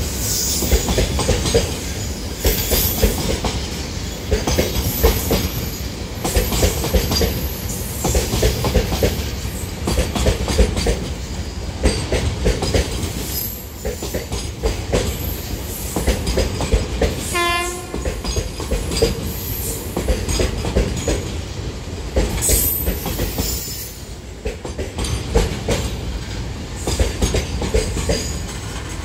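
A long container freight train's wagons rolling past at speed: a steady rumble of steel wheels on rail with a repeated clickety-clack over the rail joints. A little past halfway comes one brief high squeal.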